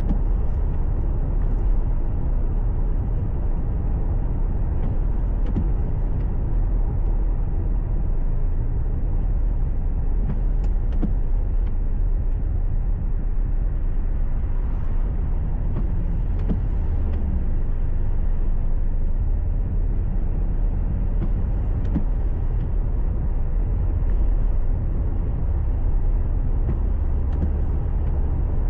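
Steady low rumble of road and engine noise inside a moving car, heard through a dashcam microphone.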